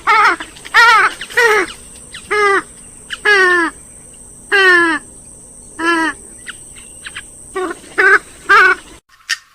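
Gallinule (swamphen/moorhen group) giving a run of about a dozen loud, harsh calls, each short note falling in pitch, some in quick pairs. The recording cuts off abruptly near the end.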